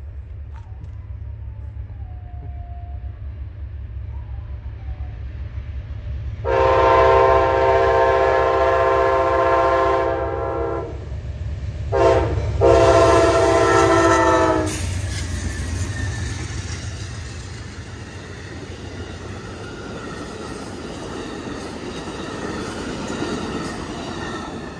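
An Amtrak GE Genesis passenger locomotive sounds its horn for a grade crossing as it approaches over a low rumble: a long blast, a short one and a final long one, the end of the standard crossing signal. Then the passenger train passes close by, with steel wheels rushing on the rails and a clickety-clack of the cars.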